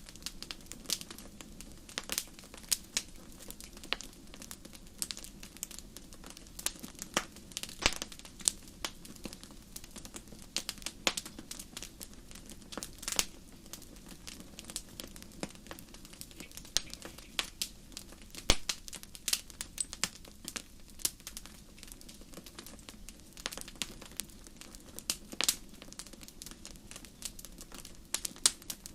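Wood fire burning in a fireplace, crackling with irregular sharp pops and snaps over a soft steady rumble of the flames.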